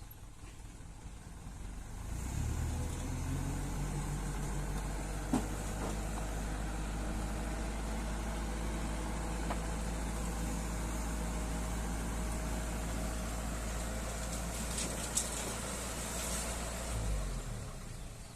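Dump truck diesel engine speeding up about two seconds in and running steadily at raised speed, as when powering the hydraulic hoist to tip a load of soil. It swells briefly and then drops off shortly before the end. Two sharp clicks or knocks sound over it.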